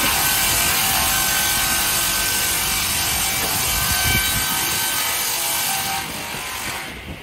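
Multi-rip saw (Winter MRS-155, caterpillar feed) sawing through timber: a loud, steady cutting noise with a faint whine in it, which steps down about six seconds in and falls away further near the end.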